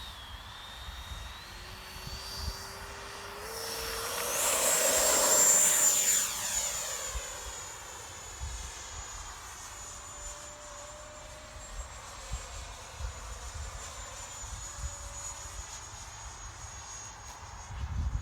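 Electric ducted fan of a radio-controlled model jet whining as it throttles up and rolls for take-off, the pitch climbing over the first few seconds. It gets loudest and highest about four to six seconds in as the jet passes close by, then stays a steady high whine that slowly drops in pitch and fades as it climbs away, with wind rumble underneath.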